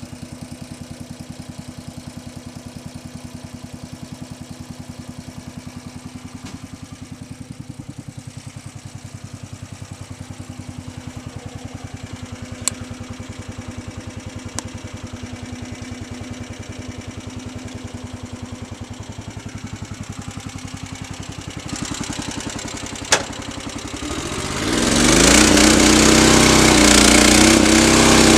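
Small engine driving a hay bale wrapper, idling steadily with a few sharp metallic clicks from the machine. About 24 seconds in it speeds up and runs on louder at a higher steady speed.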